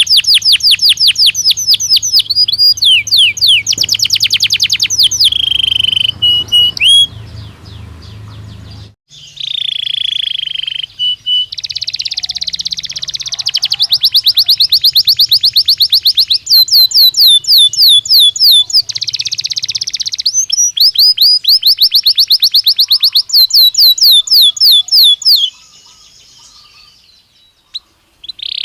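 Belgian canary singing: long phrases of fast trills, rapid runs of repeated sweeping notes, with short pauses between phrases about a quarter of the way in and again near the end.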